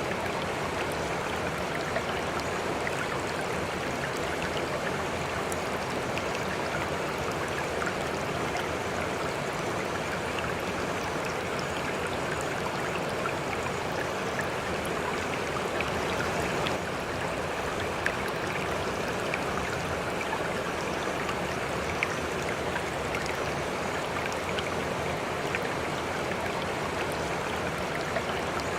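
A shallow stream running over rocks: a steady rushing and babbling of water, with small splashes and drips throughout.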